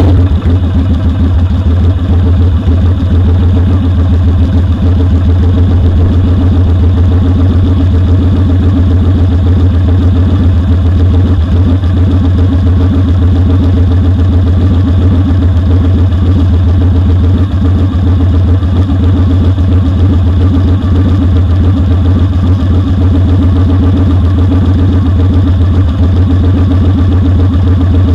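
Motorcycle engine idling steadily at an even, unchanging pitch, heard close up from a camera on the foot peg.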